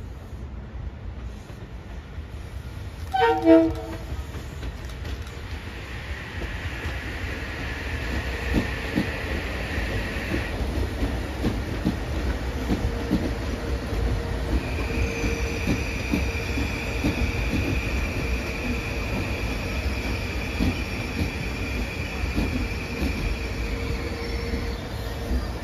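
Kawasaki M8 electric multiple-unit train sounds one short horn blast about three seconds in, then rolls past with a steady rumble and repeated wheel clicks over the rail joints. A hiss follows for a few seconds, and later a steady high-pitched whine or squeal holds for about ten seconds before stopping shortly before the end.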